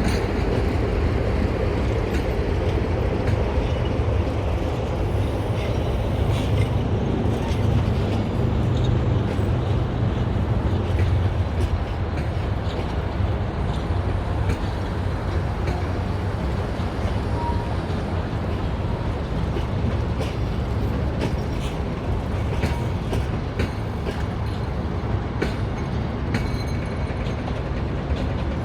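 Train at a railway station, a steady low rumble with irregular short clicks and knocks from the wheels on the track.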